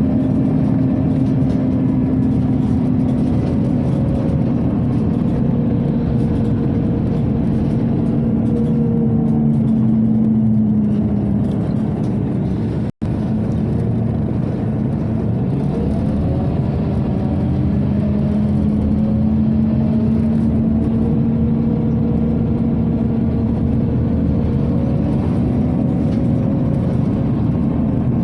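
Inside a Scania OmniCity city bus under way: a steady whir of the ventilation blowers over the engine and road noise, with hum tones that drift slowly in pitch. The sound cuts out for an instant about halfway through.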